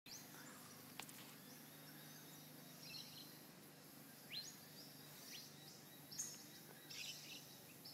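Faint birdsong: short chirps that rise quickly in pitch, coming about once a second in the second half. A single sharp click about a second in.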